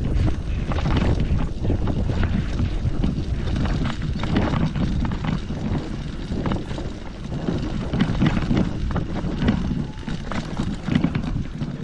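Wind buffeting the microphone as a low, steady rumble, with scattered clicks and rustles over it.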